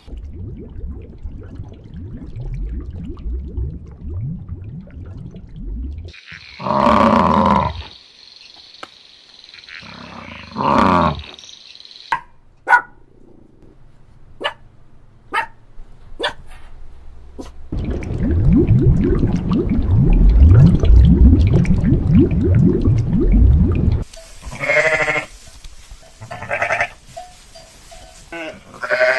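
A series of mixed clip sounds: low rumbling, two loud pitched cries, scattered clicks and a loud low rumble. In the last few seconds a sheep bleats several times.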